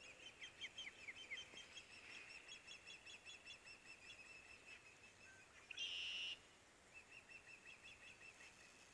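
Faint birds calling: a rapid run of short, high chirps, with a louder, held high trill lasting about half a second around six seconds in.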